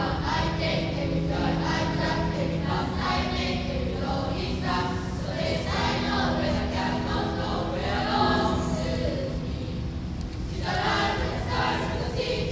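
A junior high school class choir singing a song in English, many voices together in parts.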